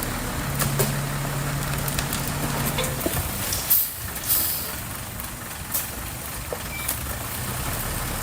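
Diesel engine of heavy construction machinery running steadily, with a few short knocks and brief hisses over it.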